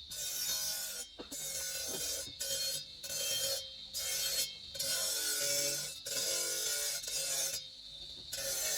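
Rasping strokes of a hand file on marble, roughly one a second with short pauses between them.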